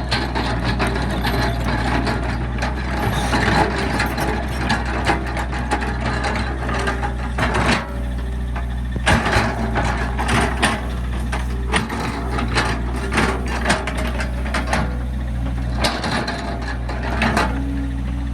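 Hydraulic excavator's diesel engine running steadily, under an irregular string of knocks, clanks and scrapes from the bucket working and loading dirt into a dump truck.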